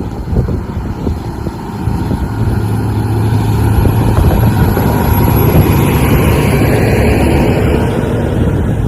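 Heavy truck engine running, a dense low rumble that grows louder about two seconds in and then holds steady.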